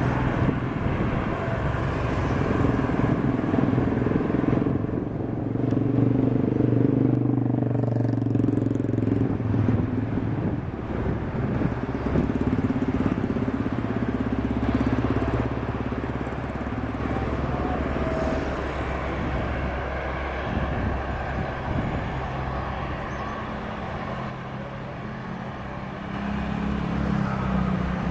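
Road traffic: motorcycle and car engines passing close by, swelling and fading, over a steady noisy background.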